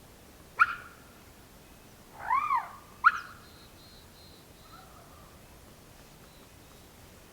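Peacock calling three times in quick succession: a sharp loud call, a longer call that rises and falls, then another sharp call, with fainter birds calling in the background.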